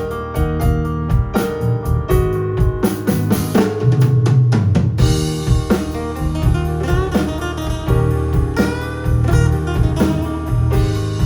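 A live band playing a song, with a drum kit keeping a steady beat under bass and keyboard notes; cymbals come in about five seconds in.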